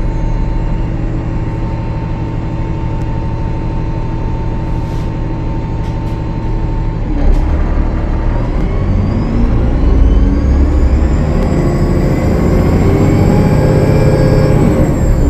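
Cummins ISL9 diesel engine of a Gillig Low Floor bus running steadily, then pulling away about seven seconds in, its sound growing louder. A turbocharger whine rises in pitch as it accelerates; the title puts this bus's turbo noise down to a turbo leak.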